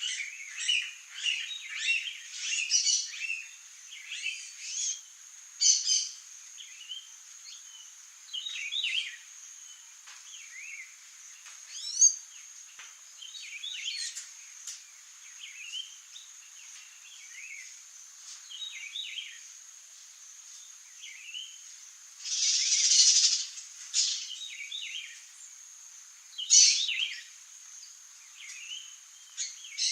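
Songbirds chirping and calling in short, irregular notes, some rising or falling, with a steady high-pitched tone underneath. A harsher noisy burst lasts about a second and a half a little past the middle.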